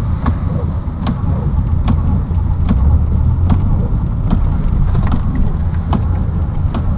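A car engine runs inside the cabin as the driver tries to get unstuck in snow, a steady low rumble that swells briefly about three seconds in. A sharp click repeats evenly, a little more than once a second.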